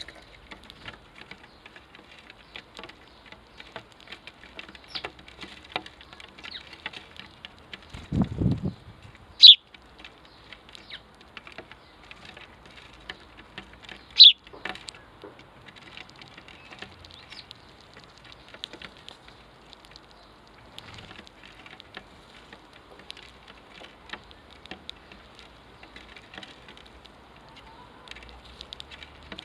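Sparrows at a garden seed spot: a steady patter of small ticks, broken by two loud, sharp chirps that drop in pitch, about a third and halfway through. Just before the first chirp comes a short low thud.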